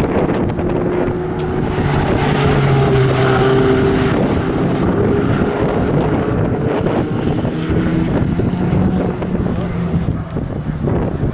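Ferrari 488 GTB's twin-turbo V8 engine revving and easing off as the car drives through a coned section of track, its pitch shifting. Wind buffets the microphone throughout.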